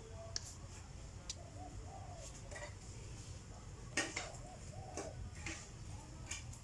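Light clicks and taps of a kitten's claws and paws on a carpeted cat condo as it climbs, with a sharper knock about four seconds in. Soft low cooing calls sound repeatedly in the background.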